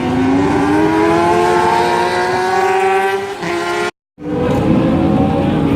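Inline-four supersport motorcycle engine at high revs under hard acceleration, its pitch climbing steadily, with a brief dip at a gear change about three and a half seconds in. The sound cuts out for a moment just after, then the engine returns, again climbing.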